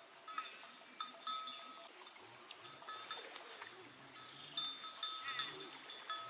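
Farm animals calling, over steady high ringing tones that come and go.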